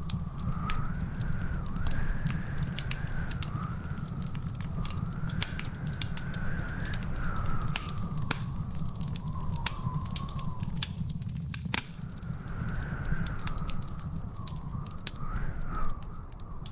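Wood fire crackling in a fireplace, with many sharp pops and snaps over a low steady rumble. A thin whistle wavers up and down through it.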